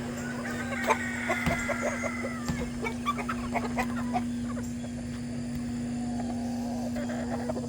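Free-range chickens clucking, with a long rooster crow near the start and many short clucks over the first few seconds. A steady low hum runs underneath.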